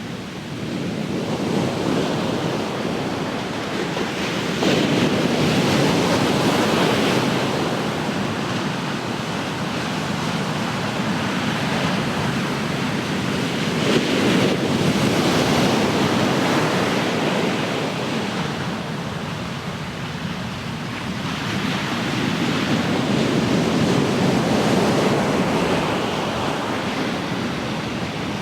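Ocean surf: waves breaking and washing up the shore, swelling and ebbing in slow surges several seconds apart, with wind on the microphone.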